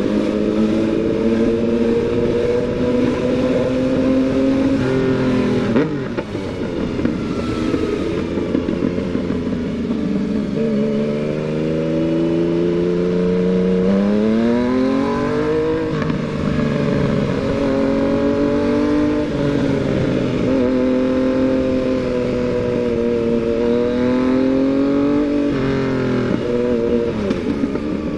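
Yamaha MT-09's inline-three engine running under way, its pitch holding, dropping and climbing as the throttle is opened and closed. It drops about six seconds in, then revs up steeply about halfway through, with another climb near the end.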